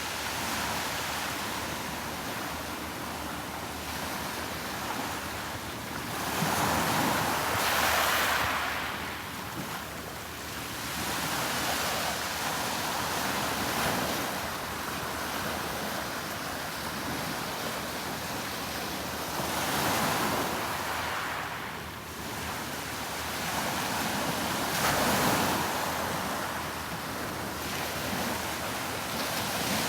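Sea waves breaking and washing on the shore, swelling and falling every few seconds, with some wind on the microphone.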